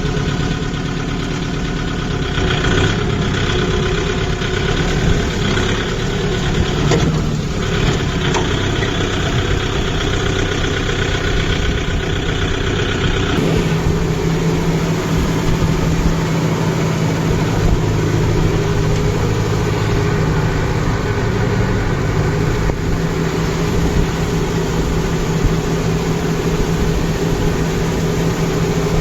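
Kubota MU5502 tractor's four-cylinder diesel engine running steadily, its note changing about halfway through.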